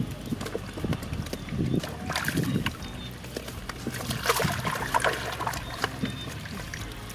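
Shallow water splashing and sloshing in irregular bursts, from hands working through a flooded rice field to catch fish.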